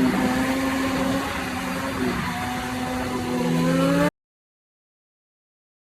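Motorcycle engine running under way, its note steady, dipping about two seconds in, then rising as it revs up. The sound cuts off abruptly about four seconds in, leaving dead silence.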